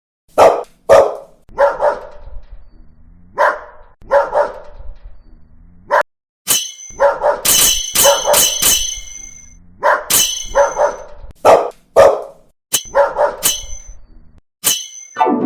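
Dog-bark sound effect repeated over and over, with short barks coming singly or in quick pairs. From about halfway through, sharp, high, ringing hits are mixed in among the barks.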